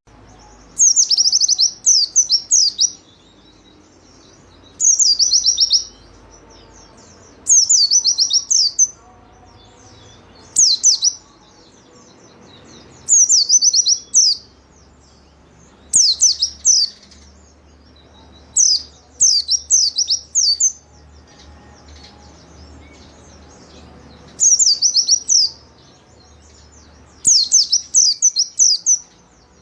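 White-eye (pleci) singing short, high, rapid phrases of quick falling notes, repeated every two to three seconds. This is the persistent full-voiced song (gacor) used to coax caged white-eyes into singing.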